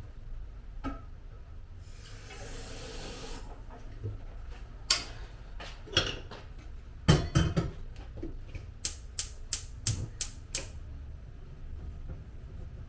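Objects being handled: a short rush of hiss about two seconds in, then a run of sharp clicks and knocks, ending in a quick series of ticks.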